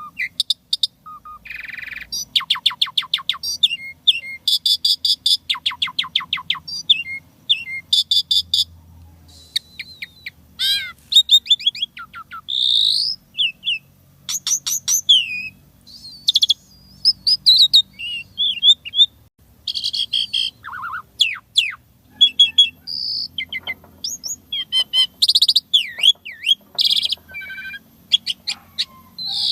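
Asian pied starling (jalak suren) singing a fast, varied song: sharp chirps, rising and falling whistles and rapid trills, with only short pauses between phrases.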